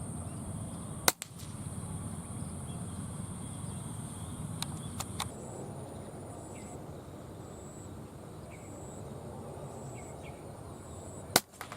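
Two sharp air rifle shots, one about a second in and one near the end, with a few lighter clicks in between. Insects buzz steadily behind, high-pitched, turning to a regular pulse about halfway.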